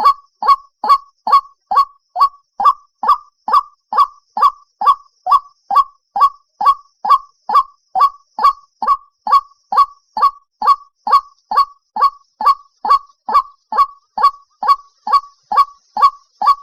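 White-breasted waterhen calling: a steady, unbroken series of short honking notes, a little over two a second, each dropping in pitch. This is the waterhen lure call used to draw the birds in.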